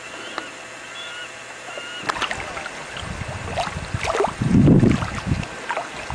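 Canoe paddles dipping and pulling through water, with splashes and water noise beginning about two seconds in; the loudest is a heavy low rush about three-quarters through. A few faint, short high chirps come before the paddling starts.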